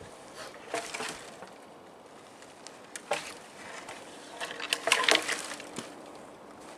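Handling of a hand saw and a dead log in the snow: scattered knocks and scrapes, with a denser run of sharp clicks and scrapes about five seconds in.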